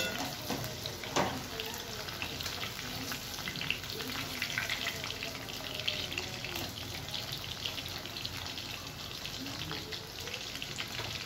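Marinated chicken pieces frying in hot oil in a kadai, nearly done: a steady sizzle and crackle of oil, with two sharp clicks near the start.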